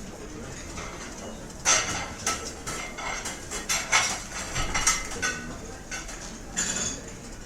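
Restaurant dining-room clatter: cutlery clinking against plates and dishes, in quick irregular knocks that come thickest between about two and five seconds in, over a low murmur of diners.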